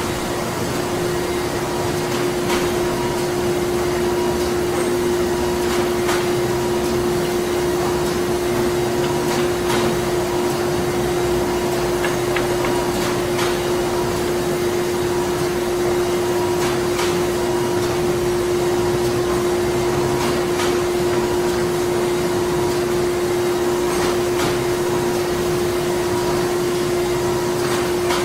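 Printing factory ambience: printing machinery running with a steady whirring drone and a constant low hum, with faint mechanical clicks every few seconds.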